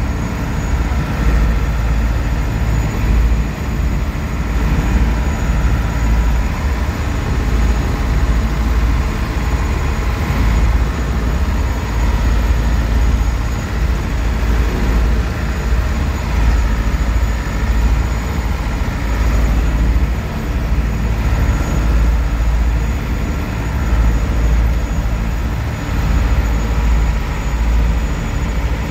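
Boat engine running steadily, heard on board, with a constant low rumble.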